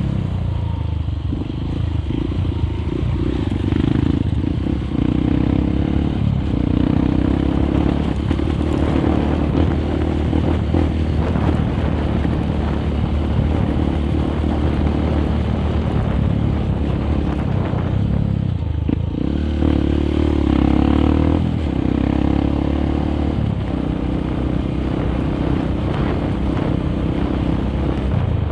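Honda CRF150L's single-cylinder four-stroke engine running under way through an aftermarket exhaust, its note rising and falling with the throttle. It eases off briefly about two-thirds of the way through.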